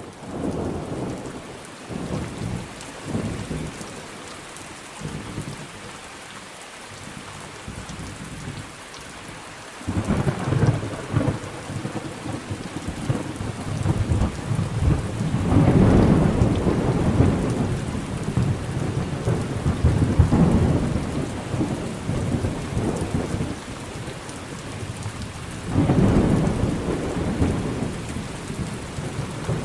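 Thunderstorm: steady rain falling, with thunder rumbling over it. Deep rolls of thunder swell up about a third of the way in, again around the middle, and once more near the end.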